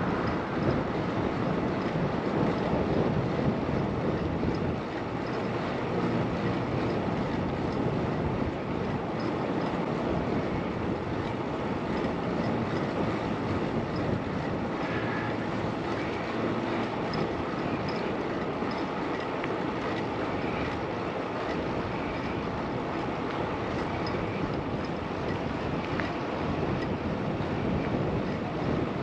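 Steady wind rushing over a helmet or bike-mounted microphone, with road noise from a bicycle in motion.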